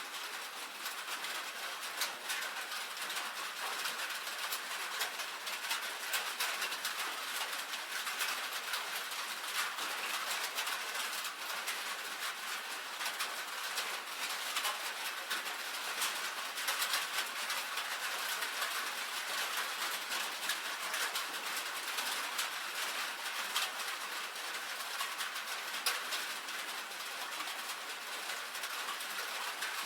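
Rain pattering steadily on a tin roof: a dense, even hiss of countless small drop ticks on the metal.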